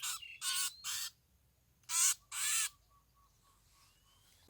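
A bird giving five short, harsh, raspy calls in quick succession over about two and a half seconds, followed by a faint run of soft, even-pitched notes.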